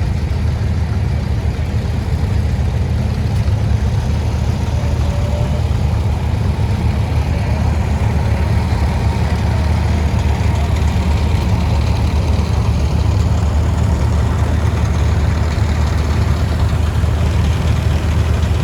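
Antique tractor engine running steadily with a deep, even note that neither rises nor falls.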